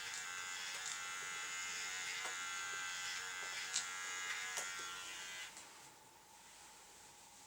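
Electric dog grooming clippers running with a steady high buzz and a few short clicks, then switched off about five and a half seconds in.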